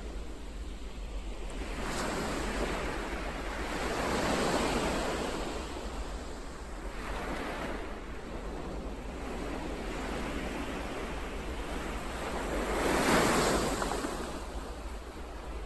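Ocean waves breaking and washing on the shore. The surf rises and falls in slow surges every few seconds, and the biggest one comes near the end.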